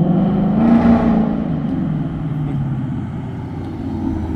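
2024 Ford Mustang GT's 5.0-litre V8 with an X-pipe and the mufflers deleted, driving past. The engine note rises in pitch to its loudest about a second in, then drops and eases off as the car moves away.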